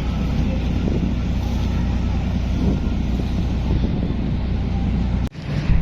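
Steady low drone of a ferry's engines, with wind buffeting the microphone. The sound briefly cuts out about five seconds in, then comes back.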